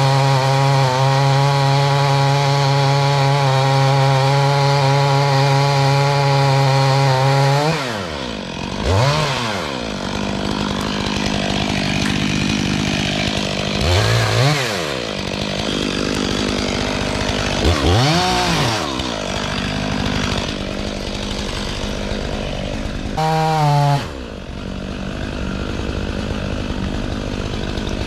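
Stihl 500i fuel-injected two-stroke chainsaw held at full throttle with a steady pitch, then dropping to idle about eight seconds in and blipped up to speed four times.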